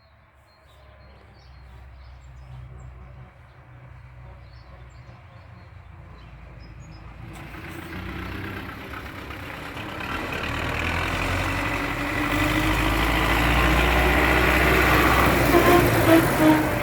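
MTZ tractor diesel engine running, the sound swelling from about seven seconds in, with a rising whine toward the end.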